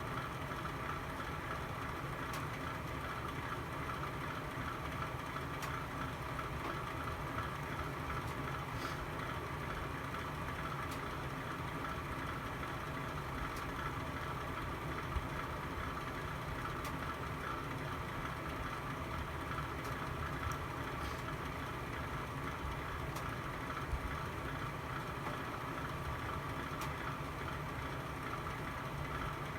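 Fire burning in a home fireplace: a steady low rumble with a few sharp crackles and pops scattered through.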